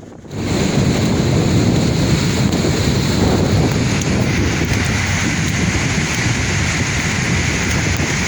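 Sea surf washing in steadily, with wind buffeting the microphone. The sound drops out for a moment right at the start.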